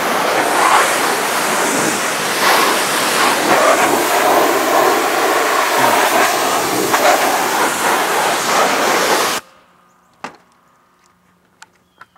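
High-pressure washer jet spraying a muddy motorcycle, a loud steady rushing hiss as it blasts off the big chunks of dirt. The spray cuts off suddenly about nine seconds in, leaving a few faint clicks.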